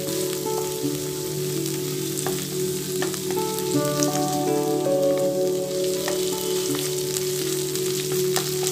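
Ginger, garlic and onion paste sizzling and crackling in hot mustard oil in a nonstick pan while a spatula stirs it, frying out the raw ginger-garlic. Soft instrumental music with held notes plays underneath.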